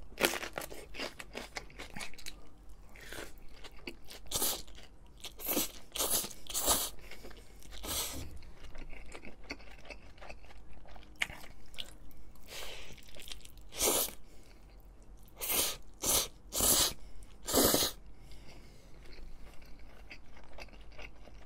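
Person biting into and chewing a raw green chili pepper, with crisp crunches coming irregularly, in louder clusters several seconds in and again past the middle, and wet mouth sounds between them.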